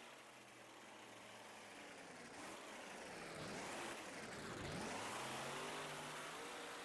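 Monster truck's engine heard from a distance, revving: its pitch falls to a low point about two-thirds of the way through, then climbs again as the throttle comes back on.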